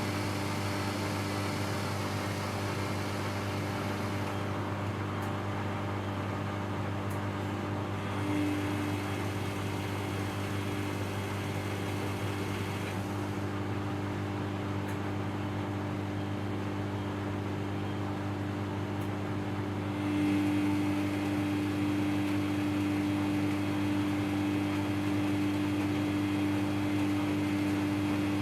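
Samsung front-load washing machine running mid-cycle: a steady motor hum under a broad whooshing hiss, stepping up a little in level about two-thirds of the way through.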